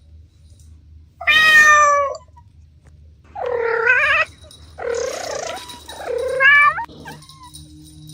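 Cat meowing four times, each call loud and a little under a second long, the last two close together.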